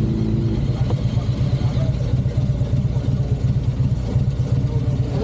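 Motorcycle engine idling with a rapid, uneven low pulse. A steady hum stops about half a second in.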